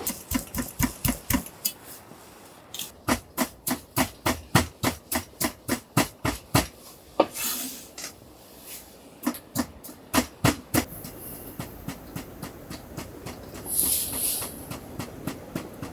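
Repeated sharp knocks, as of hammer blows, coming in three runs of about three strikes a second. A short hiss comes near the end.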